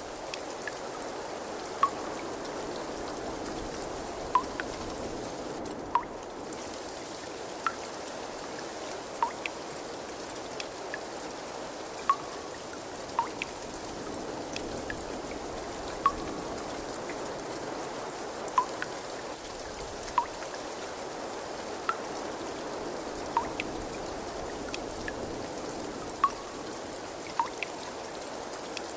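Water trickling steadily, with single clear water drops plinking into water at slightly irregular intervals, about one every second and a half.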